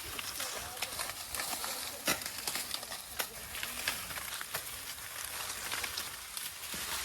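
Dry maize leaves and husks rustling and crackling, with scattered sharp snaps and clicks and one louder snap about two seconds in.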